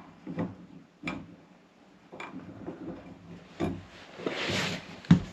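Scattered light clicks and knocks of plastic pipe fittings being handled and threaded together, with a short rustling scrape about four seconds in and a sharper knock just before the end.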